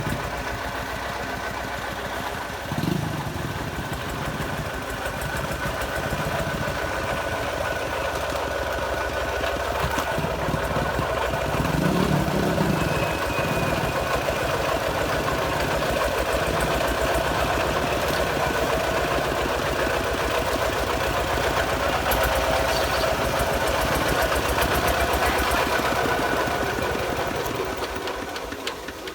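Small farm tractor engine running steadily, getting a little louder over the first several seconds and dropping away near the end.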